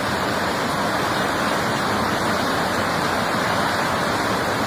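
Fast-flowing flash-flood water rushing past in a steady, loud torrent.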